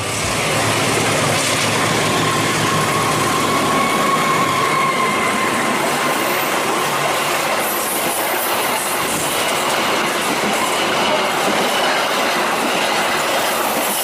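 Train running past on the rails, a loud steady rush of wheel and rail noise. Faint high-pitched whines rise over it for a few seconds at a time.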